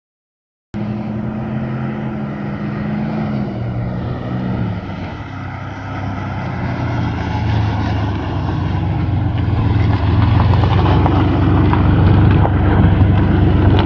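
Four-wheel-drive truck's engine running, its pitch dropping about four seconds in, then getting steadily louder as the truck drives, with road noise growing.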